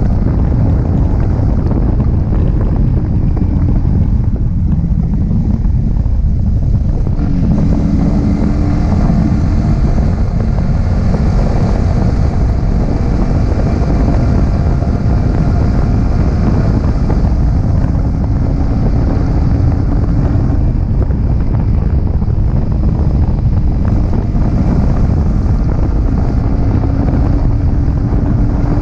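Yamaha R15M's 155 cc single-cylinder engine with stock exhaust running on the move, heavily masked by wind buffeting on the action-camera microphone. The engine note shifts up and down a few times as the revs change.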